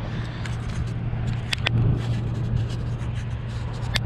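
Steady low hum, with a few sharp clicks of hands handling parts: two about one and a half seconds in and one near the end.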